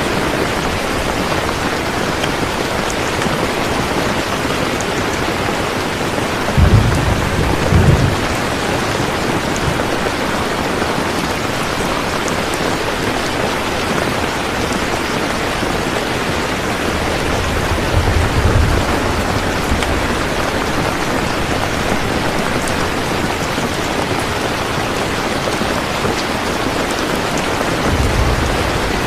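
Steady heavy rain, with low rumbles of thunder about a quarter of the way in, near the middle and near the end.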